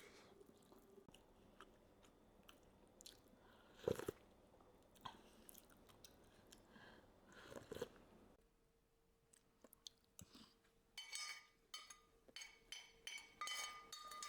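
Faint eating sounds: chewing and crunching, with a couple of louder bites. From about eleven seconds in, a run of light ringing clinks of a utensil against a dish.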